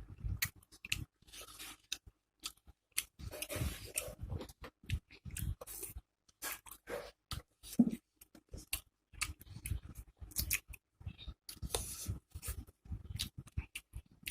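A person eating rice, curry and fried pakoras close to the microphone: irregular wet chewing, lip smacks and crunches. One sharper, louder smack comes about eight seconds in.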